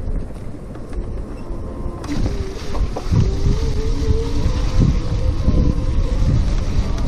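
Wind buffeting a chest-mounted microphone and tyre rumble from an electric bicycle being ridden, with a steady whine running underneath. The hiss of the wind picks up about two seconds in.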